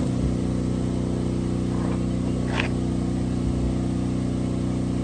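A steady engine hum running at constant speed, with one light tap or click about two and a half seconds in.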